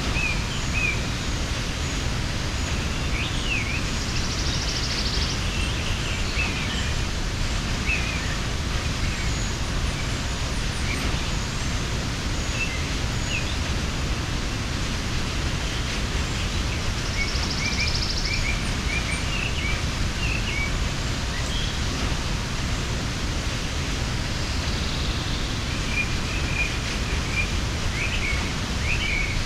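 Mountain waterfall rushing steadily, with small birds chirping and trilling now and then over it.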